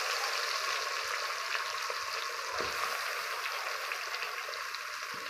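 Marinated chicken with onion and tomato sizzling in hot oil in an aluminium pressure cooker, the wet marinade just tipped in over the fried whole spices. A steady hiss that eases off slightly.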